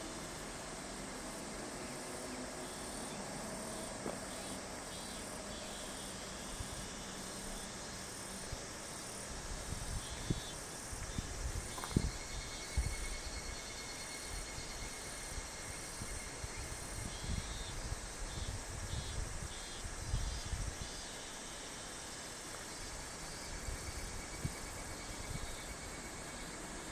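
A chorus of insects chirping in a steady, pulsing rhythm over a continuous background hiss. Irregular low rumbles come and go through the middle.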